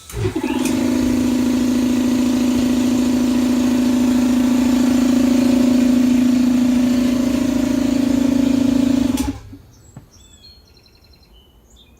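Lawnmower lift's motor running steadily with a loud, even hum for about nine seconds as it raises the lift, then cutting off suddenly.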